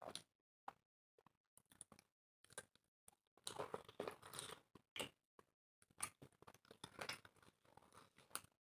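People eating by hand close to the microphone: chewing and mouth noises with soft crunches as they eat dry roti with chicken curry. The sounds come in short scattered bursts, busiest from about three and a half seconds in.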